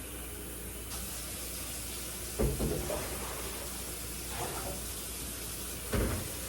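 Two dull knocks about three and a half seconds apart, with a softer one between them, over a steady hiss: refrigerator shelves being handled and taken out.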